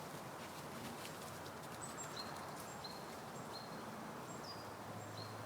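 Woodland ambience of steady background hiss, with a small songbird repeating a short, high two-note call, a higher note then a lower one. The call starts about two seconds in and repeats several times.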